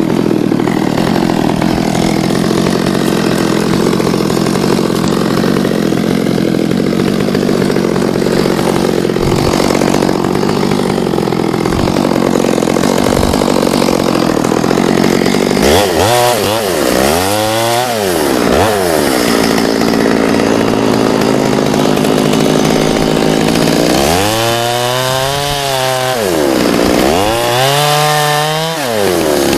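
Two-stroke chainsaw running steadily at high engine speed. From about halfway through, its engine speed repeatedly falls away and climbs back, several times over.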